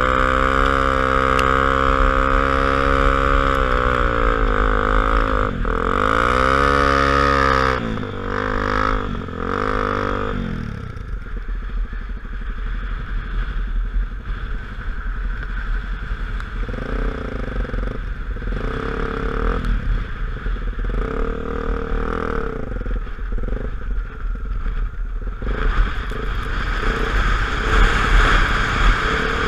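Honda XR250 Tornado motorcycle's single-cylinder engine running under way. It holds a steady pitch for the first several seconds, then the revs drop and climb again a few times. In the second half a rough rushing noise of wind and terrain covers it, with the engine rising and falling underneath.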